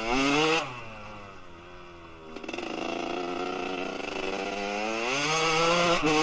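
Kawasaki KX125 single-cylinder two-stroke engine with a Pro Circuit R-304 shorty silencer. It rises in revs at first, drops back about half a second in, then climbs through the revs again and is loudest near the end.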